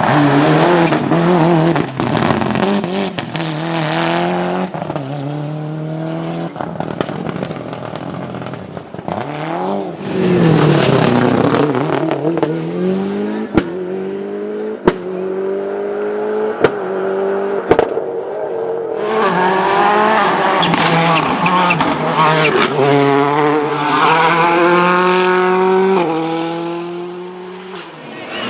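Rally cars at full throttle, engines revving up and dropping back through gear changes, with several sharp exhaust bangs in the middle and some tyre squeal.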